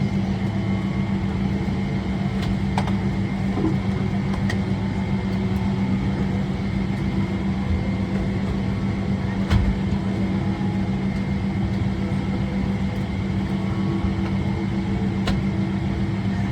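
Steady hum of a Boeing 777-300ER's cabin air system, a constant low drone with a fixed low tone, and a few faint clicks scattered through it.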